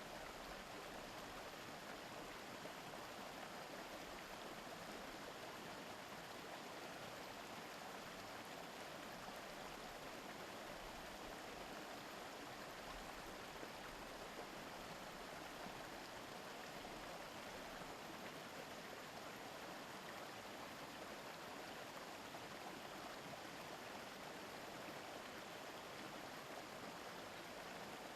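Small river babbling, a steady, even rush of flowing water.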